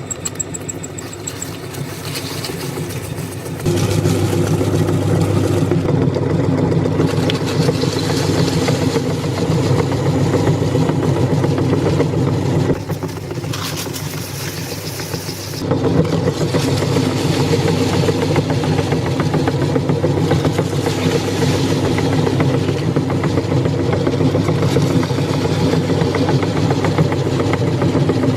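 Electric meat grinder running with Lay's potato chips in it, a steady motor drone. It grows louder and heavier about four seconds in, eases for a few seconds in the middle, then comes back up to full level.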